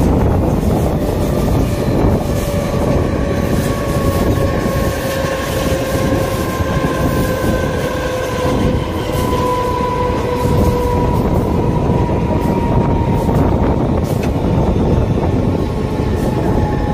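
Mumbai suburban electric local train running along the track, heard from its open doorway: a steady rumble of wheels on rails and rushing air, with a faint whine that slowly falls in pitch.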